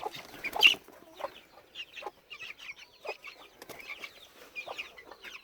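Month-old Silkie chicks cheeping in many short, high chirps, some sliding in pitch. There is one sharp knock about half a second in.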